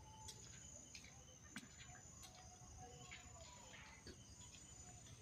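Near silence: faint background with a thin, steady high-pitched tone and a few soft clicks.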